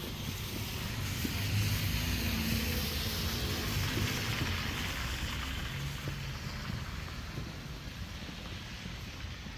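A vehicle passing on a snowy, slushy street: tyre hiss swells over the first couple of seconds, then slowly fades away over a low rumble.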